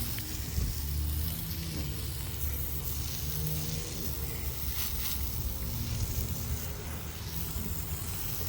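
An engine running steadily at idle, a low even hum, with one faint click about five seconds in.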